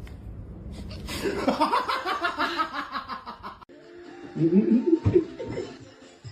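People laughing in rapid pulses, cutting off abruptly, then laughing again.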